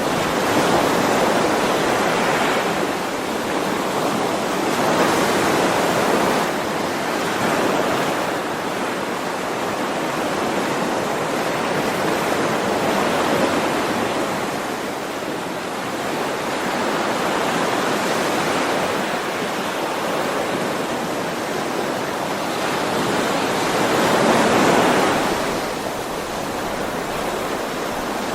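Ocean waves washing onto a shore: a continuous rush of surf that swells and ebbs every few seconds, with the largest wave near the end.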